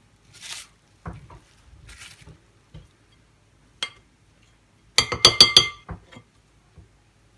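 Kitchenware clinking: one ringing clink, then about a second later a quick run of several clinks that ring briefly, with soft handling rustles before them.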